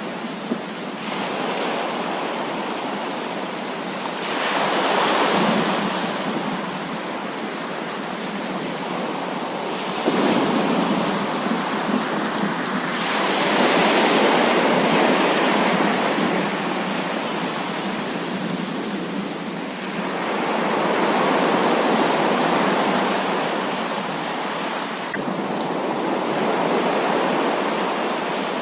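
Heavy rain falling in a steady hiss that swells and eases in long waves every several seconds, with a sudden surge about ten seconds in.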